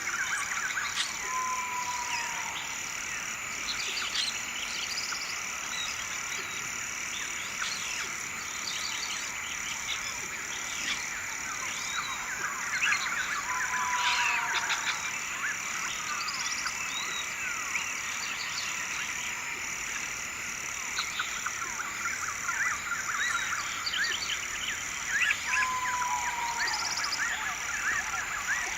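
Nature ambience of a chorus of frogs, insects and birds: a constant high drone under many quick chirps and calls. A short, slightly falling call comes three times, about twelve seconds apart.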